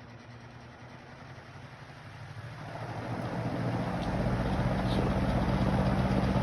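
Old Montgomery Ward box fan with metal blades starting up in reverse: quiet at first, then its motor spins up over a second or two and settles into a steady hum with rushing air. Its bearings are worn.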